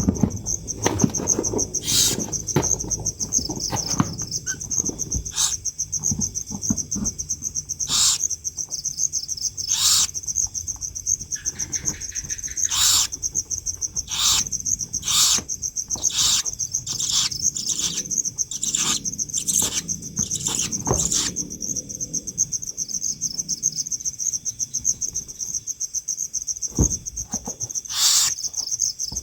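Steady, fast-pulsing high insect trill, with short sharp sounds repeated every second or two, fewer between about 22 and 28 seconds in.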